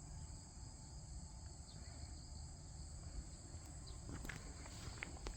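Steady high chirring of crickets and other insects, with footsteps starting about four seconds in.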